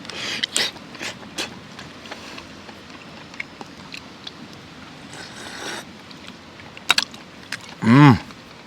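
Scattered light clicks and knocks, then near the end a short hummed voice sound that rises and falls in pitch.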